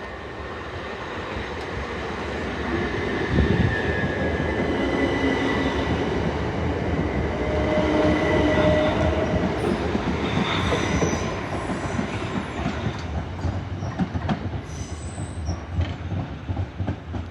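Southern Class 377 Electrostar electric multiple unit pulling out, growing louder, with its wheels squealing in the first half. In the second half it goes into a rhythmic clatter of wheels over rail joints.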